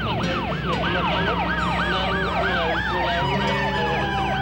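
Emergency-vehicle sirens: a fast yelp sweeping up and down about three times a second, with a second, slower wail rising near the middle and falling slowly toward the end, over a steady low hum.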